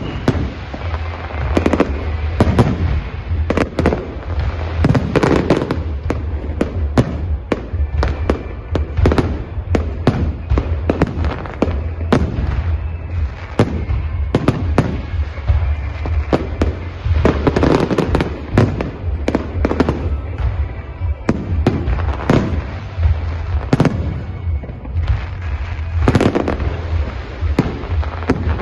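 Aerial fireworks display: a rapid, irregular run of shell bursts and reports, often several a second and overlapping, with a steady low rumble underneath.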